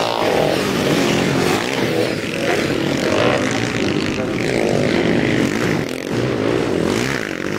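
Sidecar motocross outfits' engines running hard on the track, their pitch rising and falling as the riders rev up and back off.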